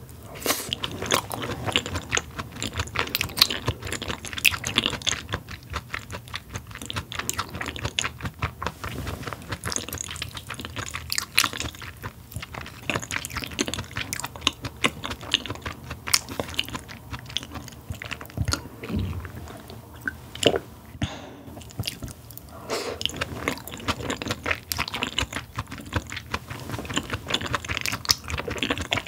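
Close-miked chewing of raw Korean beef: a dense, continuous run of small wet clicks and smacks from the mouth, easing off briefly about two-thirds of the way through.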